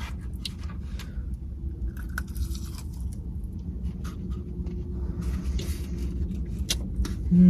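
Chewing and crunching into a Dorito-crusted boneless chicken wing, with scattered crisp crunches over a steady low hum.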